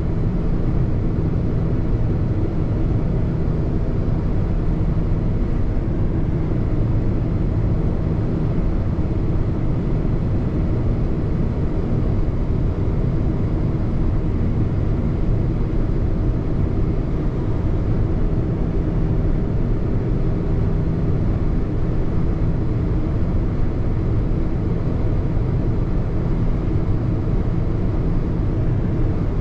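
A car being driven: steady low engine and road noise at an even pace.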